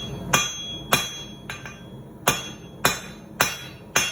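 Hand hammer striking hot 1/2 inch square steel bar on an anvil, about seven blows at a steady pace with a short metallic ring after each, finishing the shoulders on the bar.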